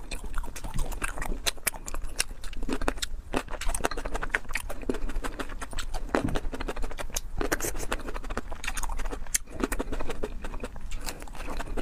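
Close-miked chewing and mouth sounds of someone eating fast: a quick, uneven run of wet smacks and clicks.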